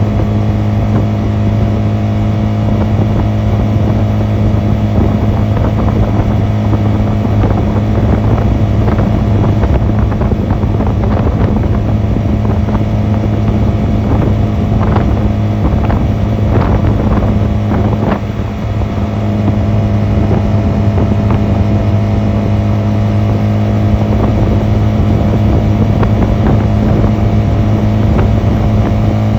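Honda 250cc motorcycle engine running at a steady speed on the move, heard from on the bike. Its note holds steady except for a brief drop about eighteen seconds in, after which it picks up again.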